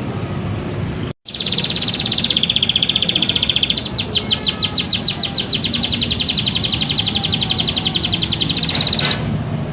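Recorded songbird song played as a masteran training track: a fast trill of rapidly repeated high notes, then about four seconds in a quicker series of sharp, clipped notes that runs for several seconds. The sound cuts out completely for a moment about a second in, and a steady low hum lies underneath.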